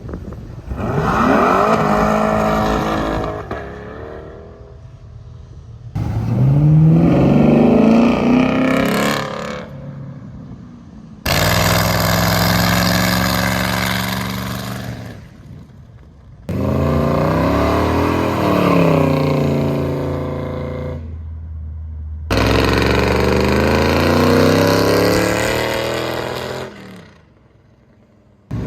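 Car engines revving hard in a run of separate short clips, each one climbing and falling in pitch through blips and long pulls, with abrupt changes from one car to the next every five or six seconds. The sound fades away near the end.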